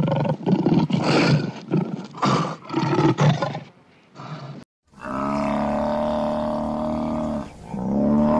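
A lion roaring in a run of short calls, about four in three and a half seconds. After a brief silence, a cow mooing: one long, steady moo, then a second beginning near the end.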